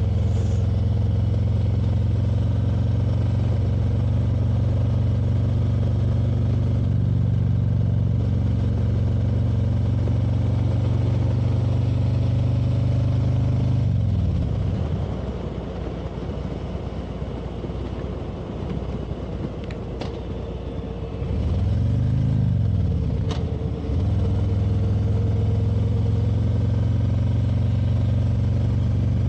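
Motorcycle engine running at a steady cruise. About halfway through, the revs drop and it goes quieter for several seconds, then the revs climb back up to a steady cruise.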